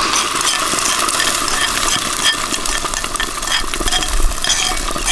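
Egg and sausage mixture hitting hot oil in a frying pan over a wood fire: it starts sizzling at once as it is poured in, then keeps frying with a steady crackly sizzle.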